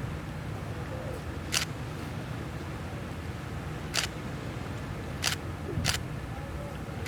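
Four sharp camera shutter clicks, spaced irregularly, over a steady low rumble.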